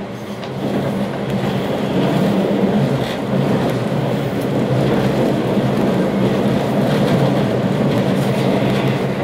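Passenger train running, heard from inside the carriage: a steady rumble of wheels on rails with a low hum underneath, growing a little louder about a second in.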